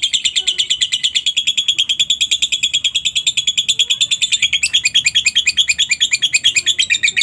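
Lovebird doing its long 'ngekek' chatter: an unbroken trill of rapid high notes, about a dozen a second. About four and a half seconds in, the notes turn coarser, each sliding down in pitch.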